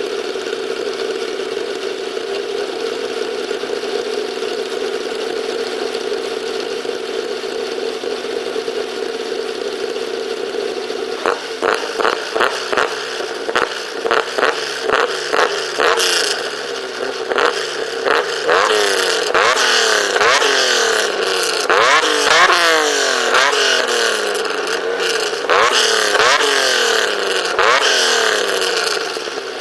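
Exhaust note of a Nissan Skyline's naturally aspirated RB30 straight-six, enlarged to 3.2 L and running on Denso 12-hole injectors, stick coils and a Haltech E11v2 ECU. It idles steadily for about eleven seconds, then is revved in a series of quick free-revving throttle blips, each climbing in pitch and falling back, before settling back to idle near the end.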